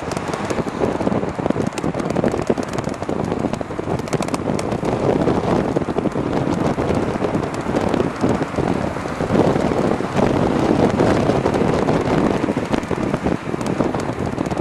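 Wind buffeting the microphone on a moving e-bike, with road noise: a loud, steady rushing full of crackles.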